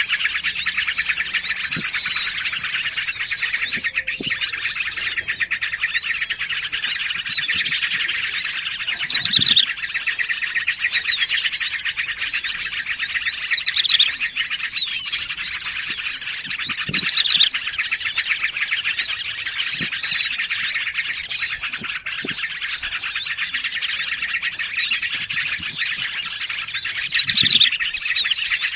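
Dense, unbroken chorus of small songbirds for a bird-trapping lure: rapid high chirps and twitters of yellow-vented bulbuls, prinias and other small forest birds layered over one another. A fast, high trill comes in twice, near the start and a little past halfway.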